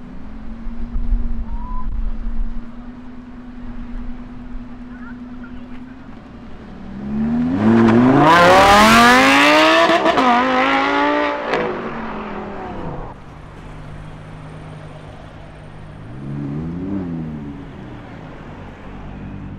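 A car's engine revving hard as it accelerates away, loud, its pitch climbing, dipping once at a gear change and climbing again before it fades. Other engines idle steadily around it, and one gives a short rev near the end.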